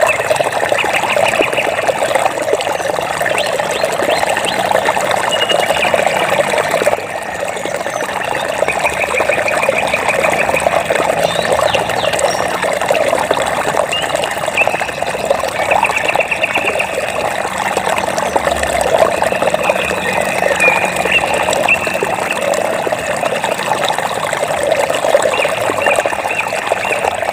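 Water flowing steadily, with short, rapid, high trilling animal calls repeating every few seconds over it.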